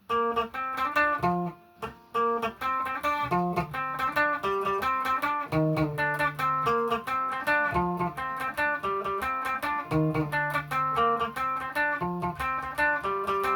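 Guitar played with quickly picked single notes in a repeating riff, with a short break about two seconds in.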